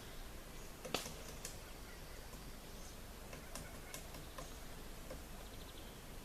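A sharp click about a second in, then a few fainter scattered ticks, over steady quiet outdoor background noise.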